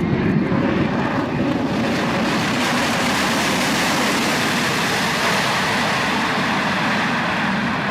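Airplane noise during a landing: a steady, loud rushing sound of engines and air, without clear tones or impacts.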